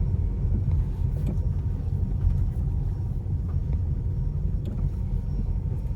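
Car driving, a steady low road and engine rumble heard from inside the cabin, with a few faint scattered ticks.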